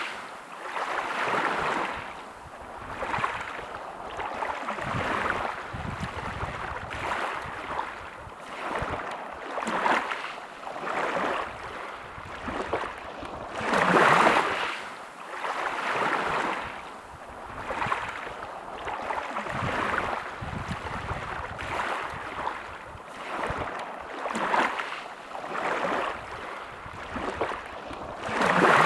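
Sea waves breaking and washing up on a beach, a rushing hiss that swells and falls back every few seconds, with one bigger wave about halfway through.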